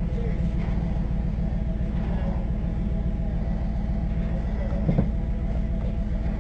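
Tow truck's engine running with a steady low rumble, and a single knock about five seconds in.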